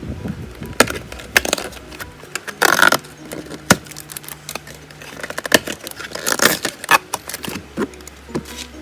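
Crinkling and clicking of Pokémon card booster packs and cards being handled and opened, in irregular short bursts, over soft background music.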